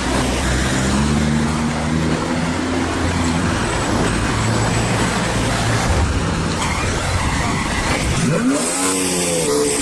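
Sports car engine running loudly over a rushing noise, with a sharp rev rising in pitch about eight seconds in.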